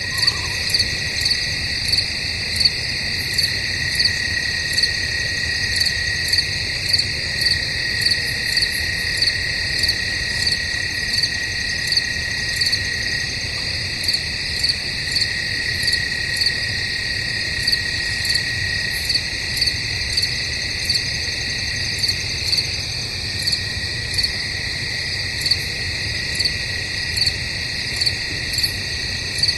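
A night chorus of crickets: a continuous high trill runs under a louder chirp that repeats at an even pace, a little more than once a second.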